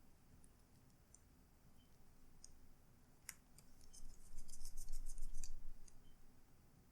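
Light clicks and scratches of small parts being handled and fitted during laptop reassembly: a sharper click about three seconds in, then a quick run of light clicks for about a second and a half.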